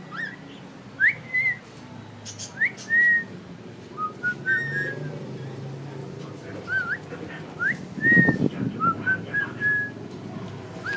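Cockatiel whistling: a string of about a dozen short, clear whistles, each a quick upward slide often ending in a held note. A brief low rustle comes about eight seconds in.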